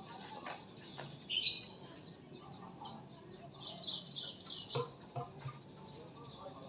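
White-rumped shama (murai batu) singing: one louder call about a second and a half in, then a long run of quick, high, down-slurred whistled notes, about five a second.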